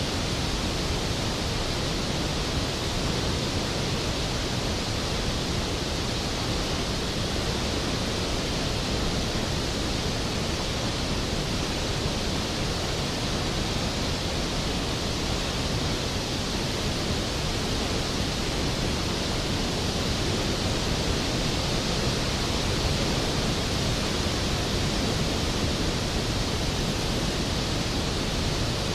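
Skógafoss waterfall's heavy plunge of water, a steady, unbroken roar with no change over the whole stretch.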